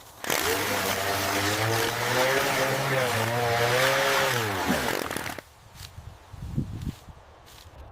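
A small engine running, its pitch wavering up and down, then winding down with a falling pitch about five seconds in; a few faint knocks follow.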